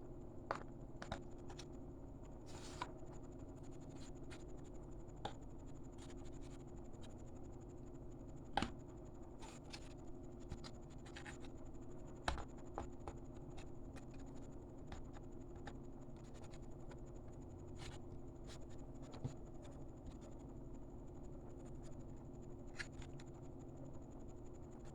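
Light, scattered clicks and taps of small plastic toys being handled, with a couple of slightly sharper knocks about a third and halfway through, over a steady faint hum with a thin high whine.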